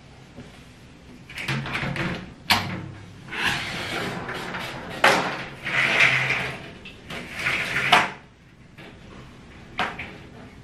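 Household handling sounds: several sharp knocks and clatters, such as cupboard or drawer doors closing, between short stretches of rustling and scraping.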